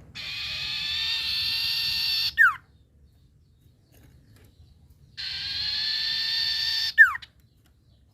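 Sirtu bird calling twice: each call is a long, steady, buzzy note of about two seconds, ending in a sharp, short downward-sliding note.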